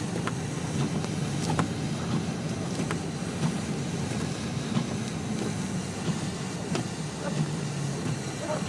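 Inside a car driving through a winter snowstorm: a steady rumble of engine and road noise, with scattered light ticks at irregular intervals.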